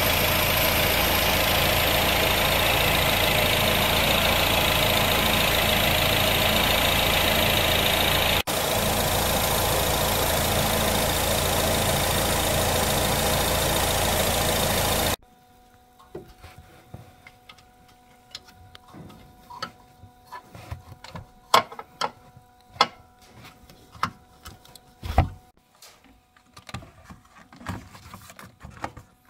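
A car engine idling steadily while the automatic gearbox's oil level is checked and its plug refitted; it stops suddenly about halfway through. After that, scattered light clicks and taps of plastic parts being fitted together as the airbox goes back in.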